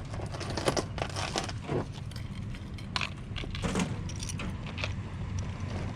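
Scattered clicks and light rustling of small items being handled, over a steady low background hum.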